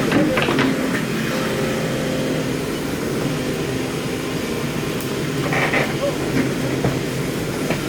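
Excavator's diesel engine running steadily, with a sharp click about five seconds in and a brief clank just after.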